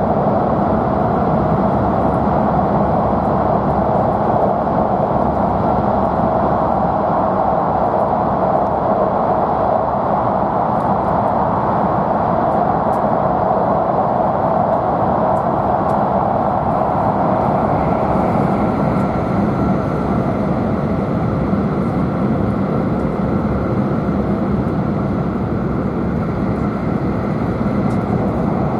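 Steady running noise of an E5-series Shinkansen in the Seikan Tunnel, heard inside the passenger cabin: an even, dense noise of wheels on rail and air in the tunnel, with a faint high tone coming in about two-thirds of the way through.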